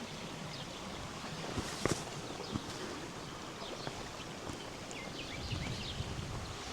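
Small birds chirping in short, quick calls over a steady outdoor hiss, with a few sharp footsteps on the path, the clearest about two seconds in. A low rumble builds from about five and a half seconds in.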